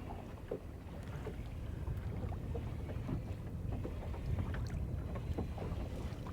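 Wind buffeting the microphone as an uneven low rumble, with water moving around a small boat and scattered light clicks and knocks of fishing tackle being handled.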